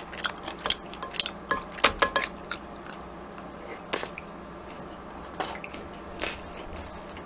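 Close-miked chewing of crispy battered fried pork (tangsuyuk): a run of sharp crackling crunches over the first couple of seconds, then a few scattered crunches.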